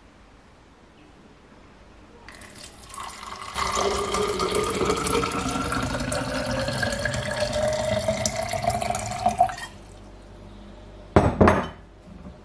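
Liquid poured into a glass, the pouring tone rising steadily in pitch as the glass fills; it stops abruptly, and a second or so later there are a couple of sharp clinks of glass being set down.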